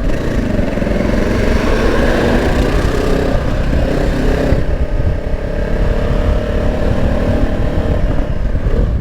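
Honda CB500X's parallel-twin engine with an aftermarket exhaust, running steadily as the motorcycle is ridden.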